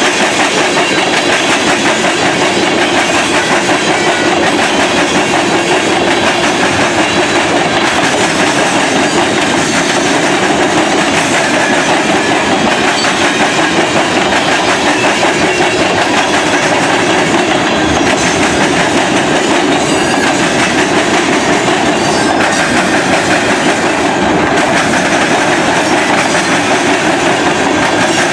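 A freight train rolling past close by, its wheels clacking over the rail joints in a steady stream of noise.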